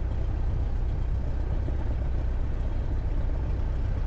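Cessna 172's piston engine running at low taxi power, a steady low drone.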